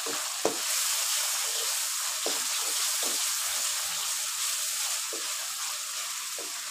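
Tomato-and-spice masala sizzling in hot oil in a wok as a wooden spatula stirs the just-added ground spices in, with a few knocks of the spatula against the pan.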